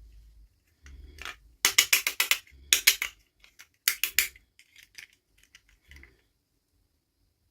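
Small plastic toy parts and packaging handled, clicking and rattling in three quick flurries a second or so apart, then a few faint ticks.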